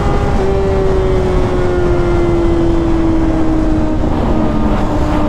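Sportbike engine running at high revs, its pitch easing down slowly as it decelerates, over steady wind rush on the microphone. About four seconds in, a fainter second engine tone falls away underneath it.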